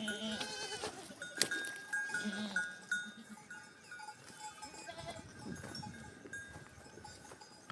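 Sheep and goats bleating in a flock, with animal bells clinking now and then and a sharp knock about a second and a half in.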